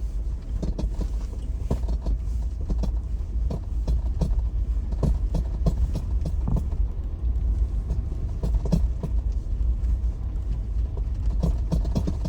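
A Jeep driving over an unplowed, ice-covered side street, heard from inside the cabin. There is a steady low rumble, with irregular knocks and crunches as the tyres roll over the ice and packed snow.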